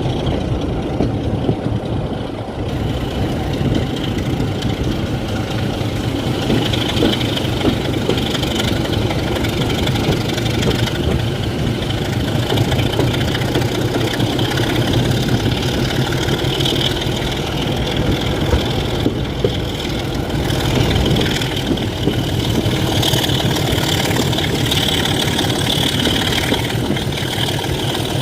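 Class 27 diesel locomotive's Sulzer engine running steadily at idle, a continuous low drone with a rapid even beat. A high steady whine joins it after a few seconds.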